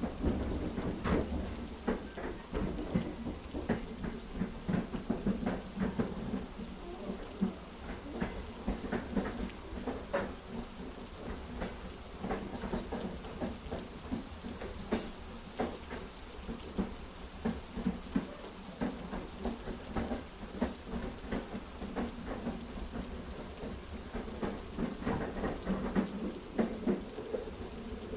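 Heavy rain, with many sharp, irregular drop ticks, over the low, steady rumble of a moving train carriage.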